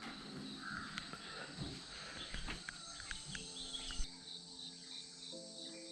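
Insects chirring steadily in a high, pulsing drone, with a few short bird calls and clicks in the first half and a single sharp knock about four seconds in. Soft background music with held chords comes in about halfway.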